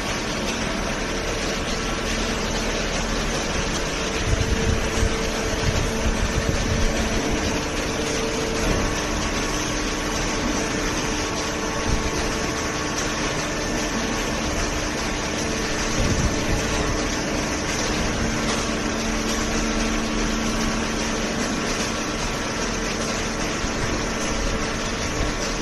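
Automatic horizontal hydraulic carton baler running: a steady hum from its hydraulic pump and motor. A few low thuds come about four to seven seconds in and again around sixteen seconds.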